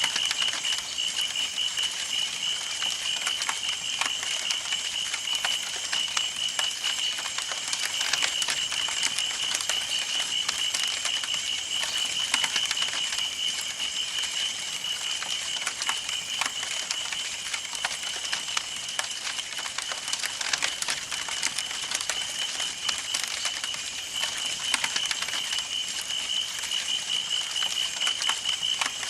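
Campfire burning: wood crackling and popping in a dense, irregular stream of small snaps over a steady hiss, with a constant high-pitched trill running underneath.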